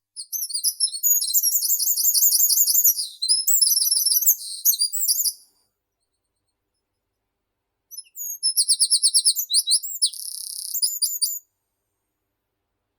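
A small songbird singing two song phrases of rapid, very high-pitched repeated notes, the first lasting about five seconds, the second starting about eight seconds in, with silence between them and after.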